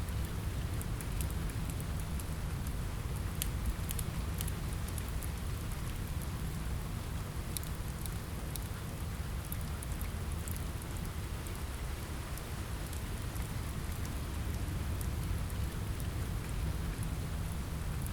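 Steady rain on a window mixed with a crackling wood fire: a constant low, rumbling hiss with scattered sharp crackles.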